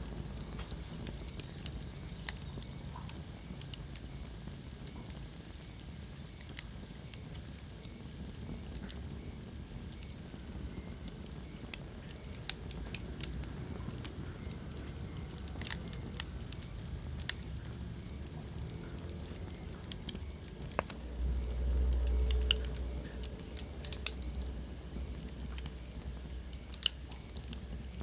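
Wood fire burning in a fireplace, crackling with irregular sharp pops over a low rumble; about three quarters of the way in the low rumble swells for a couple of seconds.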